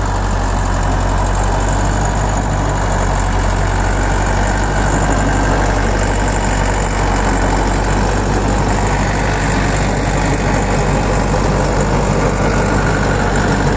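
YTO EMF 604 60 HP tractor's diesel engine running steadily, driving a large digger through its 1000 rpm PTO.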